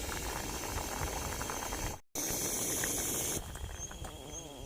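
Pot of pumpkin curry simmering, a steady bubbling hiss. It cuts off abruptly about two seconds in, and a brighter steady hiss follows, dropping to a quieter background near the end.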